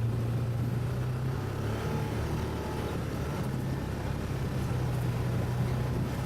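ATV engine running steadily, its pitch dipping and rising a little about a third of the way in before settling again.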